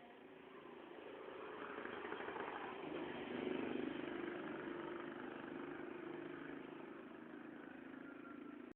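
Engine noise of a motor vehicle, growing louder over the first three seconds or so and then holding steady.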